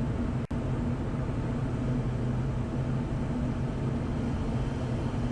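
Steady cockpit noise of an aircraft on final approach with the landing gear down: engine and airflow noise with a constant low drone, broken by a split-second dropout about half a second in.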